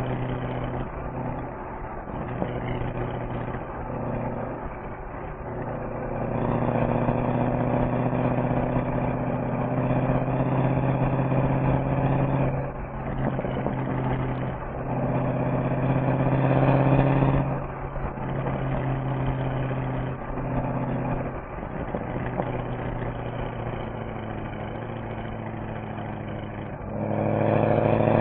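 Mercedes-AMG SL63's V8 engine and exhaust while driving, a steady engine note with a few short dips in level, growing louder and rising in pitch near the end as the car accelerates.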